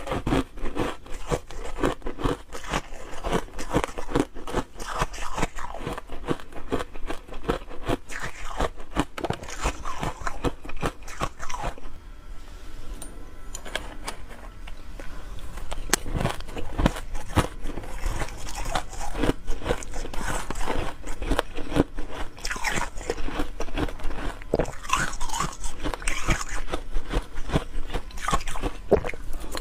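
Ice being bitten and chewed close to the microphone: rapid crunching and cracking, easing off for a few seconds near the middle before picking up again.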